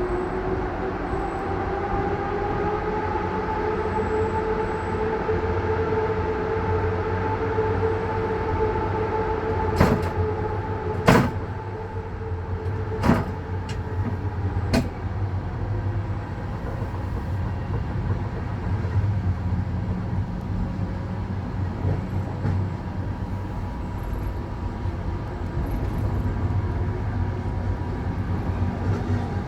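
Passenger train running with a steady low rumble and a whine that rises in pitch over the first ten seconds. A handful of sharp clacks come between about ten and fifteen seconds in.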